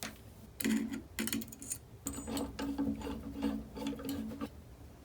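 Metal clicks and ticks of tools working on the Honda XR250L cylinder head as an intake valve is freed and pulled out, together with a low steady hum that starts about half a second in, breaks off now and then, and stops near the end.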